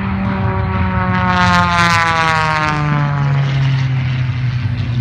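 Propeller airplane flying past, its engine and propeller note dropping in pitch about two to three seconds in as it goes by.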